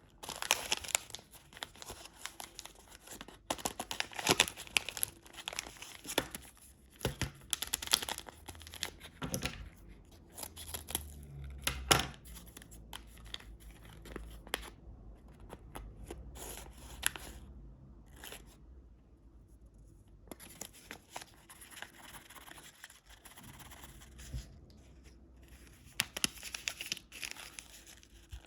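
Candy wrappers being torn open and crinkled by hand: a run of irregular crackling, rustling and sharp tearing sounds, dying down for a moment past the middle before the crinkling picks up again.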